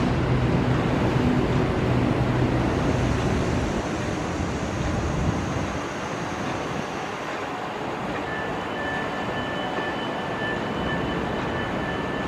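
Heavy diesel engines of a CAT 320 crawler excavator and a tractor running steadily. The low engine note eases off about four to six seconds in, and a thin high whine comes in later.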